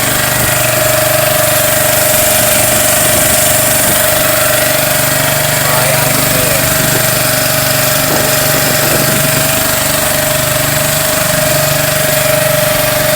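Engine running steadily at a constant speed, loud and close, with a steady whine over a low hum and a hiss.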